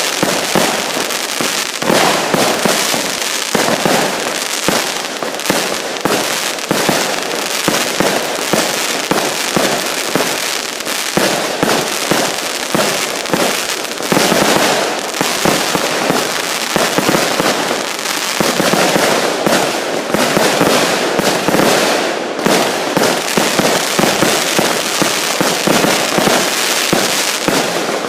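Fireworks going off in a dense, unbroken barrage of overlapping bangs and crackles.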